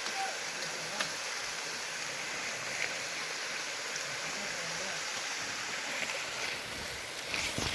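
Pot of crabs boiling in herbal water over a wood fire: a steady bubbling hiss with a few faint clicks.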